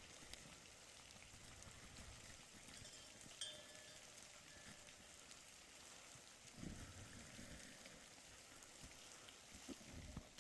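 Near silence: a faint even hiss with a few light ticks, and a soft low thump about two-thirds of the way through.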